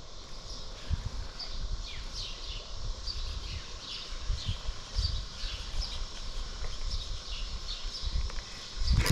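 Small birds chirping repeatedly in quick short downward notes, over low, uneven rumbling and a few dull thumps.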